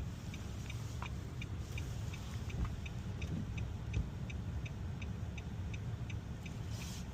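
A car's turn-signal or hazard flasher ticking evenly, about two or three ticks a second, heard inside the cabin over the low rumble of the idling engine.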